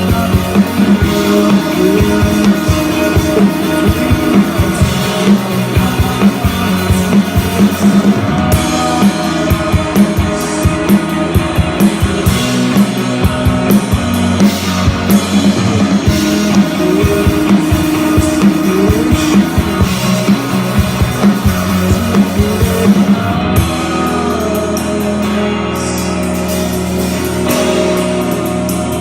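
Live rock band playing an instrumental passage on drum kit and guitar. The drums stop about three-quarters of the way through, leaving the guitars sustaining.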